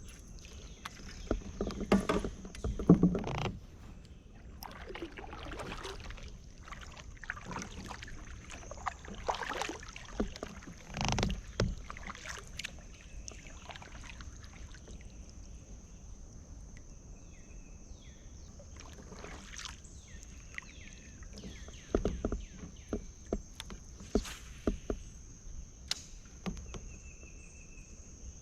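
Irregular knocks, bumps and rubbing against a kayak's hull, with a few louder thumps, as the angler moves about and handles gear. A steady high insect drone, like crickets, runs underneath.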